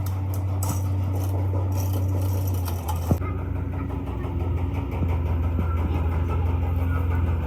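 Steady low machine hum, with light metallic clinks and one sharp click about three seconds in.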